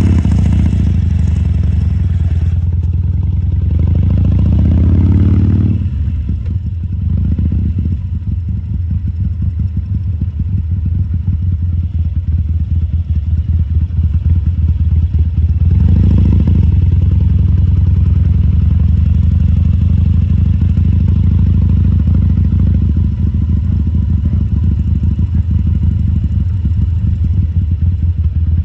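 2014 Harley-Davidson Sportster XL1200C's 1200 cc air-cooled V-twin running, with the throttle opened briefly about four to five seconds in and again around sixteen seconds. It settles back to a steady low running note in between.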